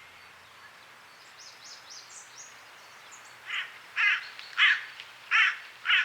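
Hooded crow cawing: five harsh caws at an even pace, starting about three and a half seconds in. Faint high chirping of small birds runs under them.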